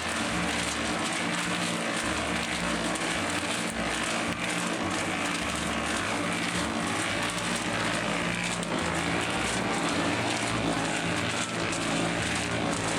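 Concrete mixer truck running steadily with a low engine hum while concrete is poured from it.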